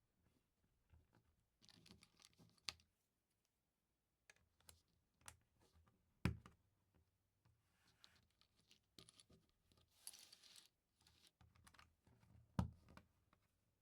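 Small plastic LEGO pieces being handled and pressed together: scattered light clicks and rattles, with two sharper snaps, one about six seconds in and one near the end.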